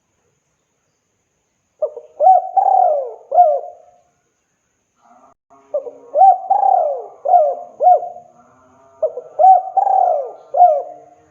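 Spotted dove cooing, the call of a male to a female: three phrases of a few short coos, each coo swooping up and falling back, with short pauses between. The first starts about two seconds in.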